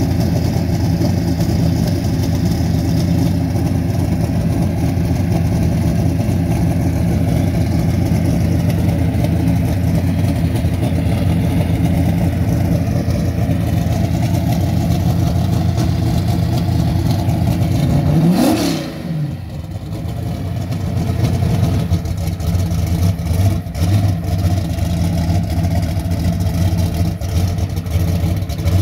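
Drag-race Camaro's engine idling loudly and steadily. About two-thirds through, its pitch briefly rises and falls, the loudness dips, and it then settles back to idle.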